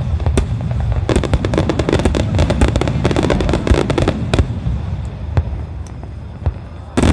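Kikuya Obata star mine, a rapid-fire barrage of aerial firework shells: a continuous deep rumble of shell bursts, with a dense crackle of many small rapid reports from about one to four and a half seconds in. A few single sharp bangs stand out, and a loud burst comes just before the end.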